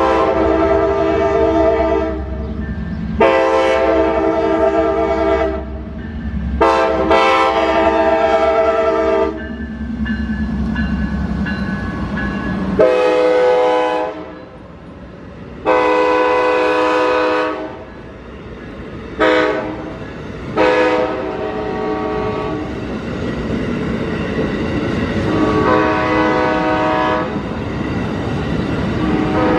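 Amtrak locomotive's multi-chime air horn sounding a long series of blasts, some long and some short, as the train passes through road crossings. A low rumble of the moving train runs under the first twelve seconds or so.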